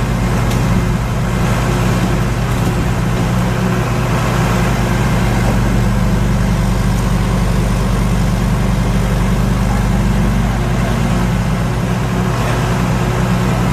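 Fire apparatus diesel engine running at a steady idle.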